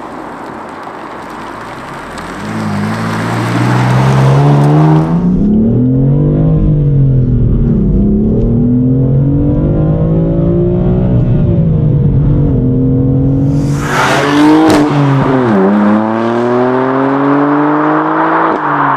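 BMW M4's 3.0-litre turbocharged inline-six with stock exhaust, accelerating hard through the gears of its manual gearbox: the engine note climbs and drops back at each shift, several times. A sharp crack and a burst of hiss come about three-quarters of the way through.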